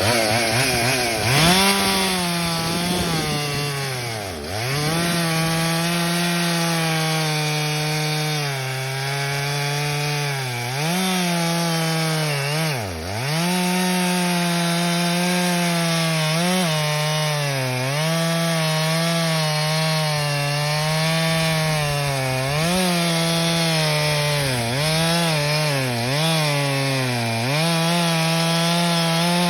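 Stihl MS 361 two-stroke chainsaw cutting wood at high revs. The engine note drops sharply about four seconds in and again about thirteen seconds in, with shorter dips later, as the chain loads in the cut or the throttle eases, then climbs back.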